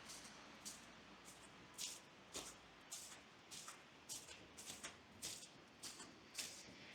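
Footsteps crunching in fresh snow at a steady walking pace, a little under two steps a second.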